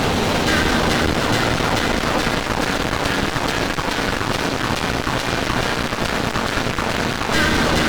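A dense, harsh wall of sound from many music tracks layered on top of one another, blurring into a steady noisy wash with faint held tones.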